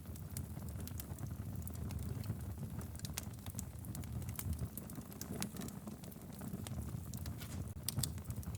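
Logs burning in a fireplace: a low steady rumble of flames with irregular sharp crackles and pops, a few louder pops about eight seconds in.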